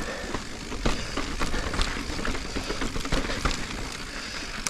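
Mountain bike, a 29-inch-wheeled Giant Reign, rolling over a dirt and rock trail. The tyres make a steady rolling noise over a low rumble, with many small clicks and knocks from the bike over bumps.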